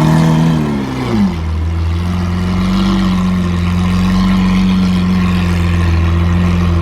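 Lamborghini Aventador's V12 through a Capristo aftermarket exhaust: one quick rev that climbs and falls back within about a second and a half, then settles into a steady idle.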